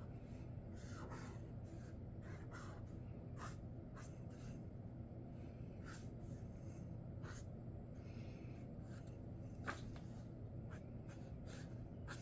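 Sharpie Creative Markers drawing: short, scratchy strokes of the marker tips, coming irregularly, over a faint steady low hum. One sharper tick about three-quarters of the way through.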